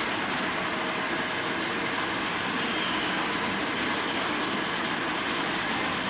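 Radiator peeling and separating machine running, a steady, unbroken mechanical noise.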